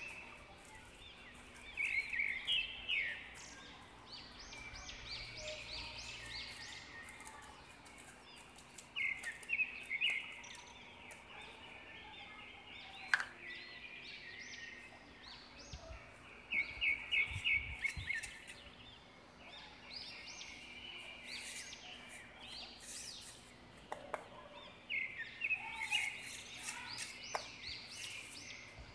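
Small birds chirping in repeated quick bursts of high notes, with a few light sharp clicks in between.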